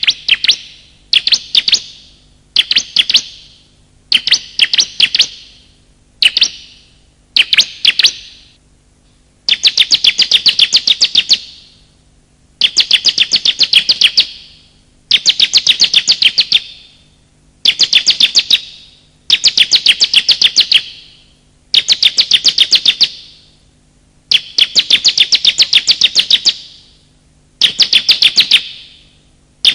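Bar-winged prinia (ciblek) calling: repeated bursts of rapid, high chattering notes, each burst one to two seconds long with short pauses between, the bursts growing longer about nine seconds in.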